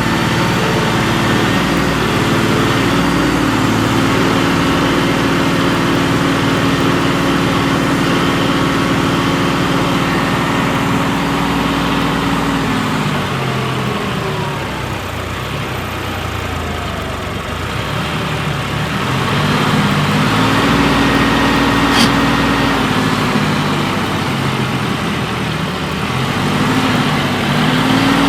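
Heavy diesel engine of earthmoving machinery working at high revs, dropping in pitch about halfway through, then revving up and easing off twice more. A single sharp click about three quarters of the way through.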